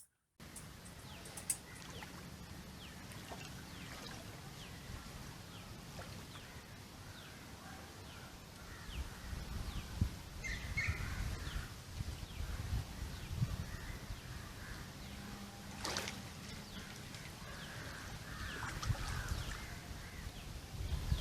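Outdoor river ambience: birds calling, with short high chirps scattered throughout, over a low rumble that swells in the middle. A single sharp click sounds about 16 seconds in.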